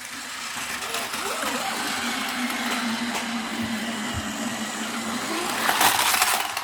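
Battery-powered Plarail toy train running along plastic track, its small motor humming steadily under the rattle of wheels and cars, with a louder clattering burst near the end.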